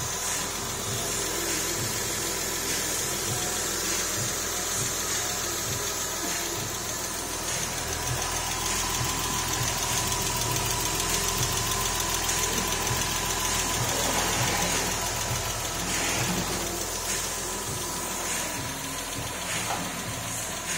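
Porsche 996's 3.4-litre flat-six idling steadily on its first run after the engine was refitted, being warmed up.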